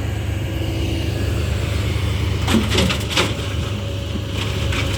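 Diesel dump truck engine running with a low steady rumble, with a few short crackling knocks about two and a half to three seconds in and again near the end.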